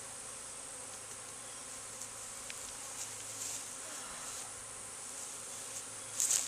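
Honeybee swarm buzzing steadily, up close, as the bees make their way into a swarm trap box. A brief scratchy noise stands out near the end.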